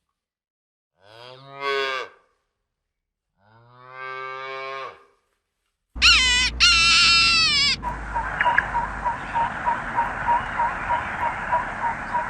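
A calf mooing: two drawn-out moos, then about six seconds in a louder pair of calls that breaks off. After that, a steady hiss with a faint regular ticking about two or three times a second.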